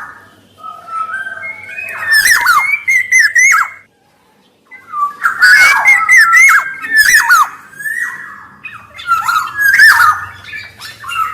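Black-naped oriole calling: fluty whistled notes that glide up and down, mixed with harsh notes, in repeated bursts of a second or two. The sound cuts out completely for under a second about four seconds in.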